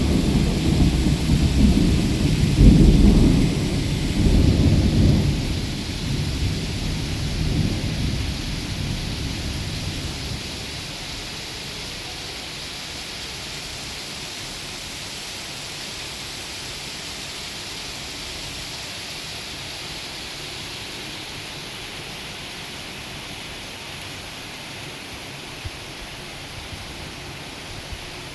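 Steady rain falling, with a long low rumble of thunder in the first few seconds that fades away about ten seconds in, leaving the even hiss of the rain.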